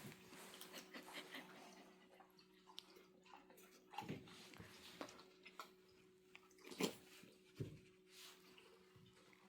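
Faint scattered taps and clicks of a dog moving about and eating treats, over a steady low hum; the loudest tap comes about seven seconds in.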